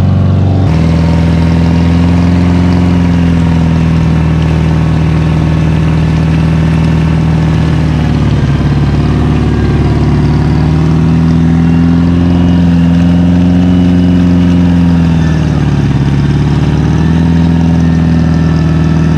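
Off-road 4x4's engine held at high, steady revs under load as the vehicle churns through deep mud, its pitch sagging briefly near the end and picking up again.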